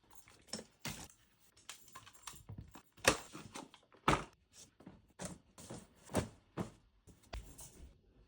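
Household clatter: a run of irregular knocks and clicks as objects are handled and set down, with two louder knocks about three and four seconds in.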